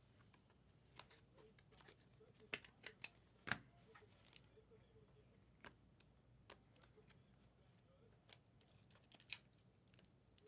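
Trading cards being handled and flipped through: faint, irregular clicks and taps of card stock.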